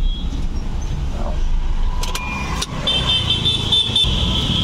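Hyundai Grand i10 engine idling steadily. About three seconds in, a high electronic beeping starts, rapid at first and then held as a steady tone, just after a couple of clicks.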